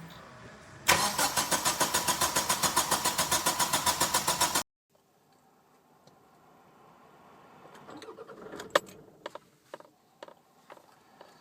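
Kia or Hyundai SUV engine being cranked by the starter, an even, rapid churning of about seven beats a second that does not catch and run, in keeping with a crank-no-start fault; it cuts off abruptly. Later a few sharp clicks sound.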